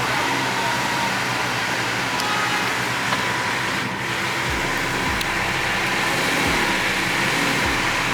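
Steady outdoor background noise of motor vehicles, with a low rumble coming in about halfway through.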